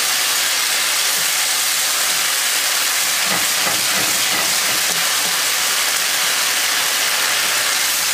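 Chicken Schezwan in its sauce sizzling in a frying pan over a high gas flame, a steady hiss, while a spatula stirs and scrapes through it, most clearly around three to four seconds in.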